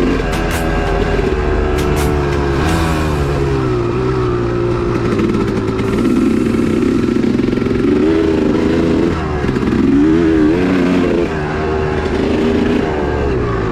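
2002 Honda CR250's single-cylinder two-stroke engine revving up and down as the throttle is opened and closed on the track, with brief drops where the throttle is chopped. A few sharp knocks come in the first few seconds.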